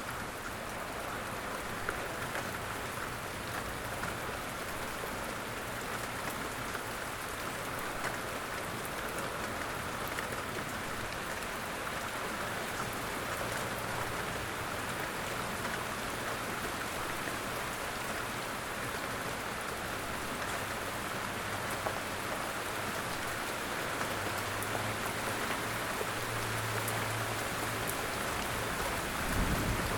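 Steady light rain falling in woodland, a constant hiss with scattered individual drop ticks.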